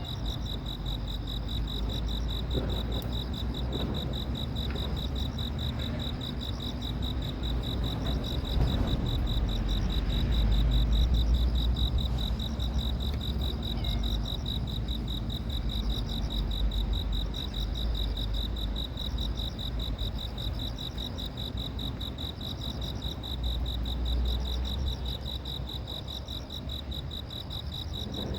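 Insects trilling without pause, a high, fast-pulsing cricket-like trill, with a second insect chirping in short repeated phrases about once a second, over a low rumble.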